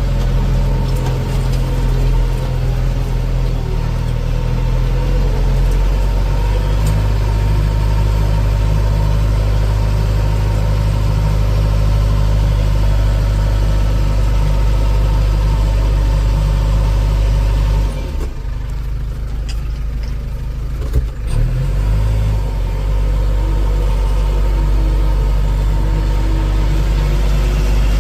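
Heavy diesel engine running steadily under load, dipping in level for a few seconds about eighteen seconds in, with a single sharp knock about three seconds after that.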